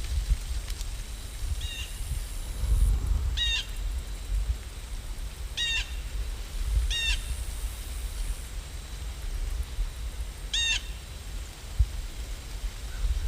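Five short bird calls, each a quick chirp with ringing overtones, spaced a second or more apart, over a steady low rumble.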